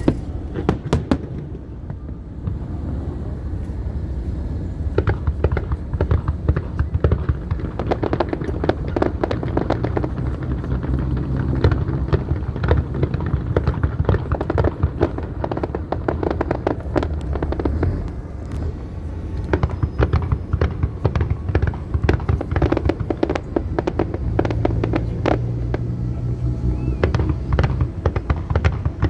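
Aerial fireworks display: a dense, continuous run of sharp cracks and pops from bursting and crackling shells over a steady low rumble.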